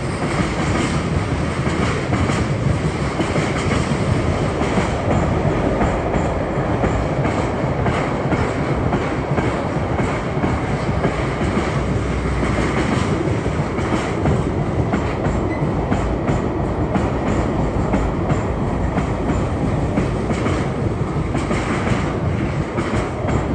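Loaded car-carrier wagons of a freight train rolling steadily past, their wheels clicking over the rail joints in a continuous clatter.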